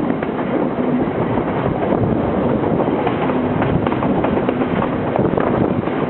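Sri Lanka Railways passenger train running along the track, heard from a carriage window: a steady rushing noise with irregular knocks from the wheels on the rails.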